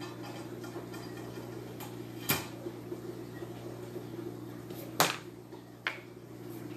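Three sharp clicks or knocks of small hard objects set down on a table, the loudest about five seconds in, over a steady low electrical hum.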